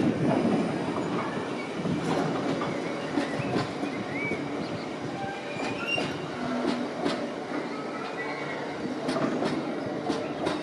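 Freight train of bogie tank wagons rolling past and away: wheels clattering over rail joints with sharp clicks and a few short wheel squeals, the rumble slowly fading as the train moves off.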